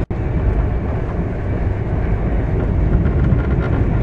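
Running noise of a Duronto Express passenger coach at speed, heard from inside: a steady rumble and rush of wheels on rails. It cuts out for an instant right at the start, then carries on unchanged.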